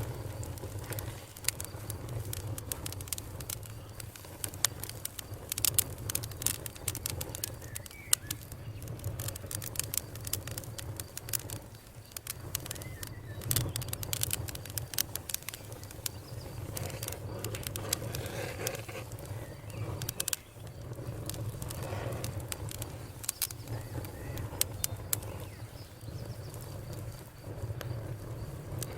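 Campfire crackling: a steady low rumble of burning wood with frequent irregular sharp pops and snaps.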